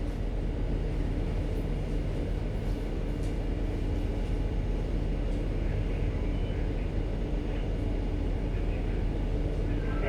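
Steady low drone of a ship's engines and machinery, an even hum with no change in pitch.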